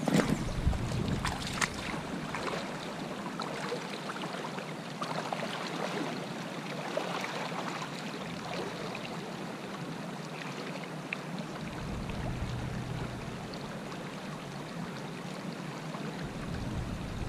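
Creek water running and babbling, a steady rushing with small splashy crackles, with a low rumble added for a few seconds past the middle.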